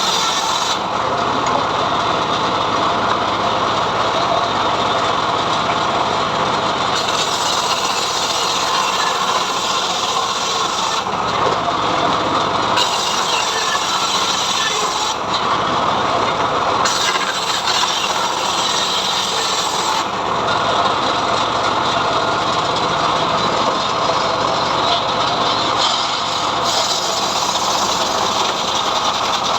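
Homemade srekel sawmill running and its blade ripping through mahogany: a loud, steady cutting noise whose highest hiss drops out and returns several times.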